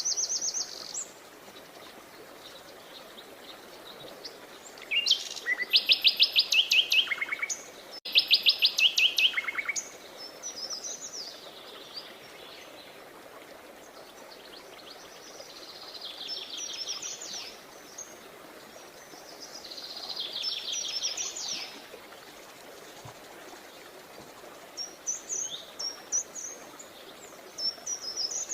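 Songbirds singing: two loud, rapid trilled phrases about five to ten seconds in, more trills later and softer scattered chirps near the end, over a faint steady background hiss.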